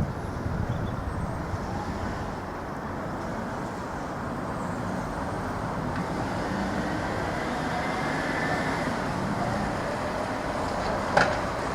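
Irish Rail 29000 class diesel multiple unit running as it moves off, a steady rumble that slowly grows louder with a faint rising whine partway through. Near the end come a few sharp clicks of wheels over rail joints.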